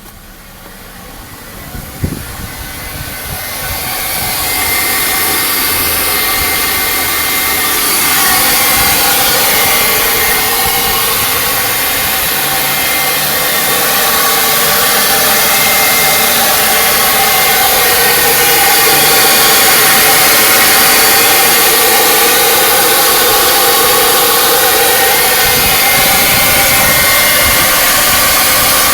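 2003 Volkswagen Jetta 2.0L engine just after a cold start, with a loud steady whirring hiss and a thin whine in it that swells over the first few seconds and then holds. This is the noise the car makes only when cold, for about 30 seconds after starting. A single sharp click comes about two seconds in.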